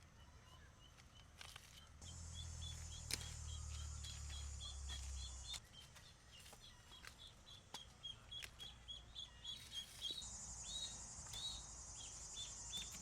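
A small bird chirping over and over, short high notes two to three a second. A low rumble comes in for a few seconds early on. Near the end a steady, rapidly pulsing high insect buzz joins in.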